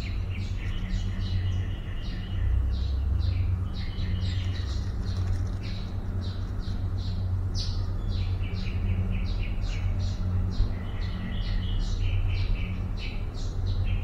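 Birds chirping: many short, high chirps in quick succession, a few strung into longer trills, over a steady low hum.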